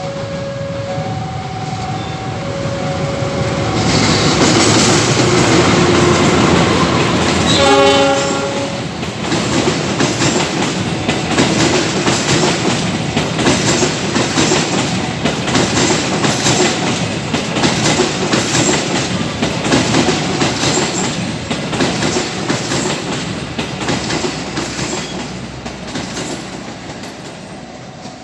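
Locomotive-hauled passenger train passing close by at a level crossing. The horn sounds in a blast about eight seconds in over the locomotive's rising rumble. Then comes a long run of rhythmic clickety-clack as the carriage wheels cross the rail joints, fading near the end.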